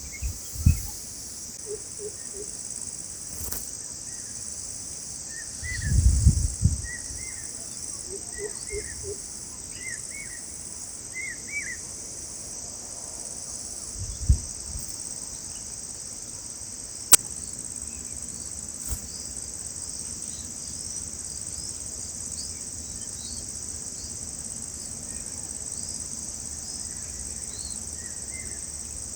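Steady high-pitched chorus of insects, with a few short faint bird chirps in the first half. There are low thumps about a second in, around six seconds and around fourteen seconds.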